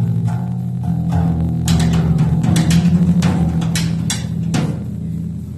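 Live band instrumental passage: distorted electric guitars holding low sustained notes with drum hits scattered over them.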